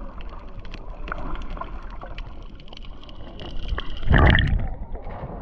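Seawater lapping and splashing close to the microphone, with many small trickling clicks and a louder splash about four seconds in.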